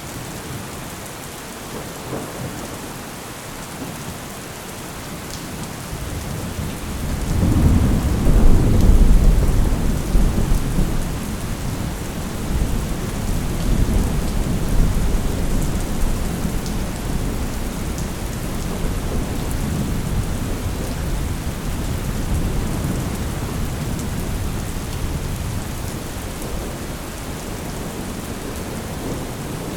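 Steady rain with a long roll of thunder: the rumble swells in about six seconds in, peaks a few seconds later and rolls on more softly under the rain to the end.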